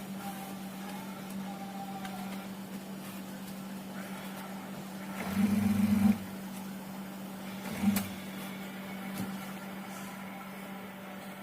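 Steady low electrical hum, with a louder buzz lasting about a second near the middle and a short one about two seconds later.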